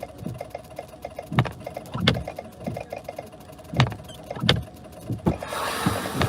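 Inside a car cab, windshield wipers knock in pairs at the ends of their sweep, the pairs coming about every two and a half seconds, over the low hum of the vehicle. Near the end a louder hiss of road or fan noise comes up.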